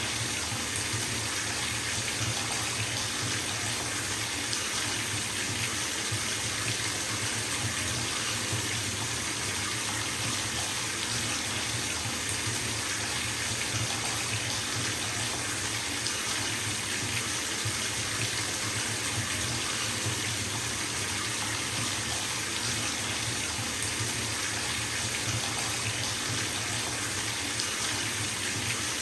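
Bathtub tap running steadily, water splashing into the filling tub in a constant rushing hiss.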